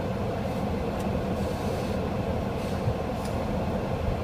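Steady low rumble heard from inside a car's cabin at a car wash, with a few faint ticks.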